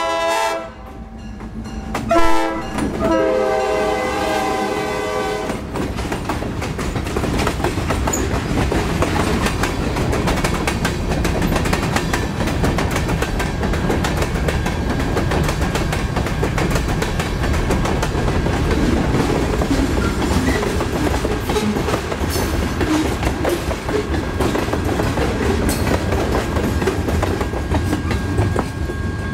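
Freight train pulled by two EMD GP9 diesel locomotives: the locomotive horn sounds a blast that ends about half a second in and another from about two to five seconds in. Then the locomotives and a long string of covered hoppers and tank cars roll past close by, with a steady rumble and wheels clattering over the rail joints.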